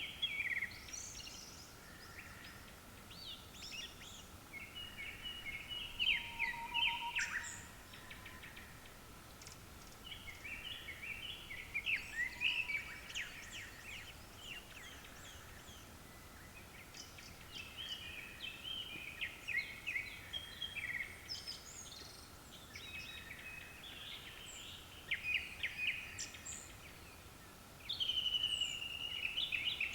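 Japanese thrush singing: a long series of short, varied whistled phrases one after another with brief pauses, a louder phrase starting near the end.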